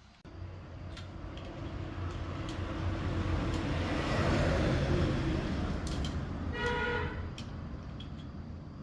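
A motor vehicle passing by: its noise swells to a peak near the middle and fades away. There is a brief horn toot about seven seconds in.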